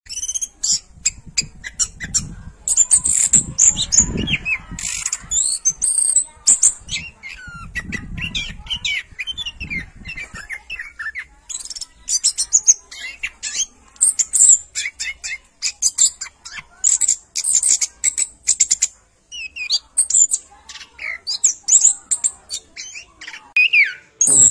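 Birds chirping and calling rapidly, with many short, high chirps and squawks in quick succession. There is a low rumble a couple of seconds in and again about eight seconds in.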